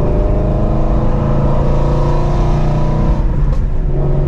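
Straight-piped Ford Mustang Shelby GT350's 5.2-litre flat-plane-crank V8, fitted with long-tube headers, running loud and steady at low speed, its note dropping slightly about three seconds in.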